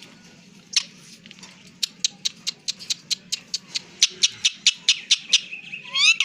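A run of quick sharp clicks, about four or five a second, then a short rising chirp from the pet parrot near the end, running into the start of its call.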